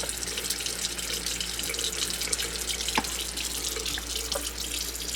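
Water running steadily from a faucet while a cat drinks from the stream, with a couple of faint clicks about three and four and a half seconds in.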